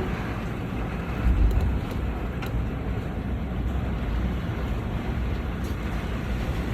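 Storm wind blowing hard and buffeting the microphone: a steady low rumble, with a stronger gust about a second in.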